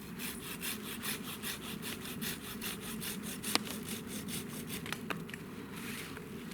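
Hand saw cutting through wood in quick, even strokes, about five a second, stopping near the end. A single sharp crack about halfway through is the loudest moment.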